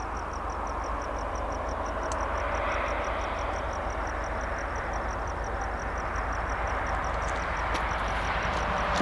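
Freight train rolling past, a steady rushing rumble that grows louder near the end, with a high, even ticking, about six a second, above it.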